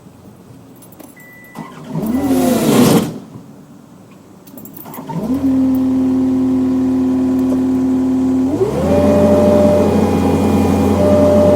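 John Deere skid steer's diesel engine starting: it fires and speeds up briefly about two seconds in and dies away, then catches about five seconds in and runs at a steady idle. It is throttled up to a higher steady speed about three seconds later.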